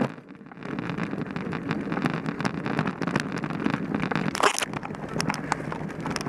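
Mountain bike rolling over a rough dirt trail: steady tyre and riding noise with many sharp rattling clicks from the bike, and a louder rattle about four and a half seconds in.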